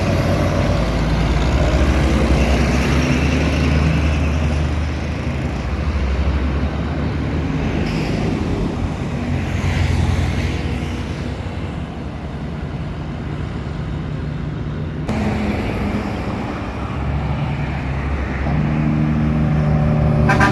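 Heavy truck's diesel engine running under road noise, its low drone stepping in pitch a few times. The sound changes abruptly about fifteen seconds in.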